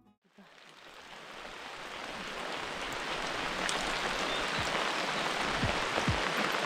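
Steady rainfall, fading in over the first couple of seconds, with a few heavier drops landing separately near the end.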